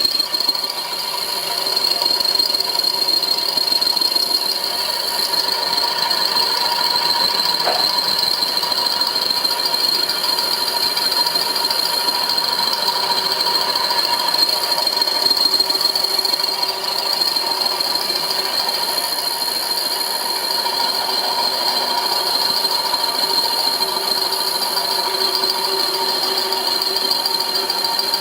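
Homemade milling machine running steadily, with a constant high-pitched whine over a rattling mechanical noise.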